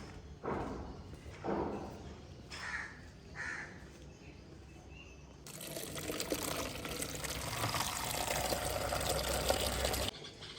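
Liquid pouring steadily for about four and a half seconds, starting about halfway through and cutting off suddenly. Before it come a few short voice-like calls.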